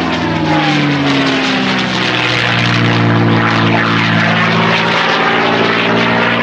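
P-51D Mustang's Packard-built Merlin V-12 engine and propeller during a display pass. The engine note falls in pitch over the first couple of seconds as the aircraft goes by, then holds steady.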